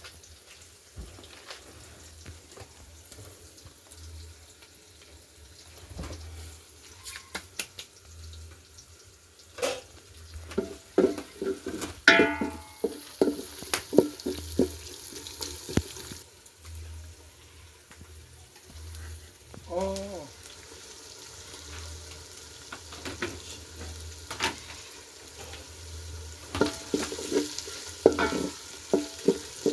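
Food frying in a pot while it is stirred: a sizzling hiss under repeated knocks and scrapes of the stirring utensil, busiest in the second half.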